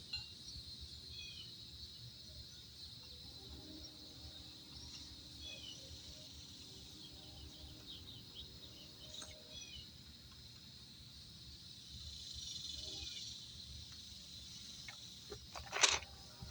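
Outdoor ambience: a steady high insect drone, probably crickets, with a few faint bird chirps. Near the end a brief, loud scraping noise.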